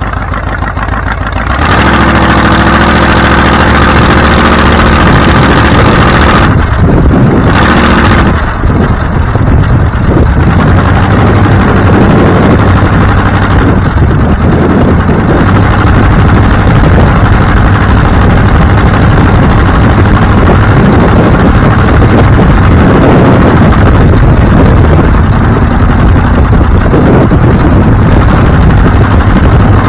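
A motor vehicle's engine running loudly. It jumps in level about a second and a half in, holds a steady engine note for a few seconds, then turns into a dense, rough noise.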